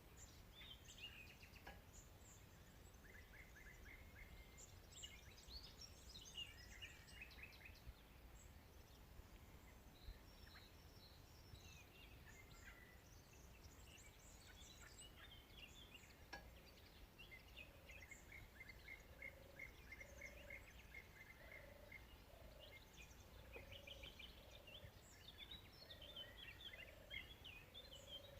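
Faint wild birdsong: several birds chirping and trilling. Past the halfway point a low short call joins in, repeating about once a second. A steady low background rumble runs underneath.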